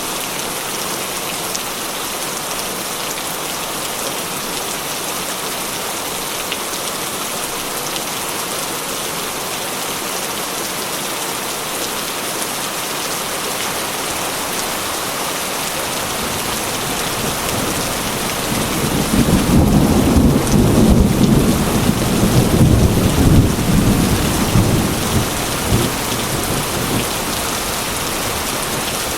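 Heavy rain falling steadily on a corrugated metal (zinc) roof, with a long roll of thunder that swells in about two-thirds of the way through and dies away a few seconds later.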